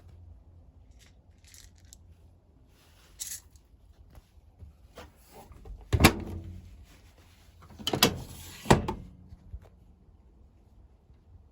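A few sharp clunks and clacks from a front-loading washing machine being handled, as its door or drawer is shut, with the loudest knocks about six and eight seconds in. A low hum runs underneath.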